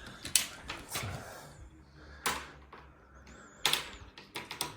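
Tape measure being pulled out and handled while measuring: a few separate sharp clicks and knocks, the strongest about two and a quarter and three and three quarters seconds in.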